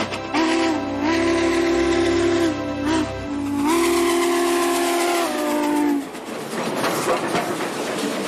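Steam locomotive whistle blowing two long, multi-toned blasts whose pitch steps up and down, followed from about six seconds in by a rush of steam noise.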